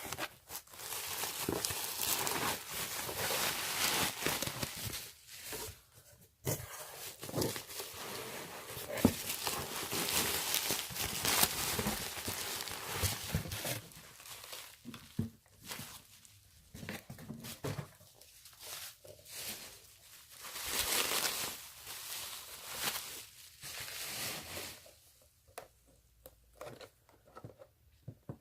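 Packaging being unwrapped by hand: crinkling and rustling in several long bursts, with scattered small clicks and knocks between them.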